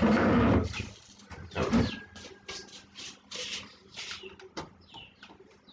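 Birds chirping in quick short calls, some with a brief falling sweep, after a voice at the very start.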